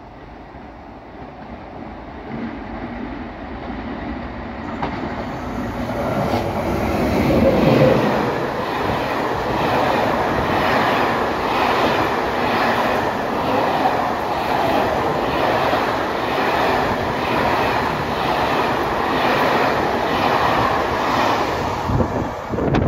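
Passenger train passing through the station without stopping: it grows louder as it approaches, loudest about eight seconds in, then a steady rush of wheels on rail with a regular clatter about once a second as the coaches go by.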